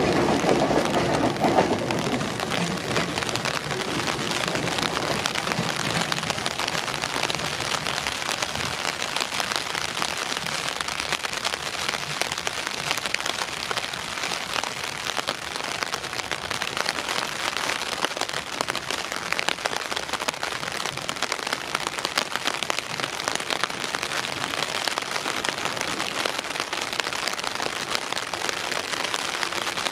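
Steady rain falling, an even patter of drops. In the first couple of seconds, the low running sound of a departing Ichibata Electric Railway 7000 series railcar fades beneath it.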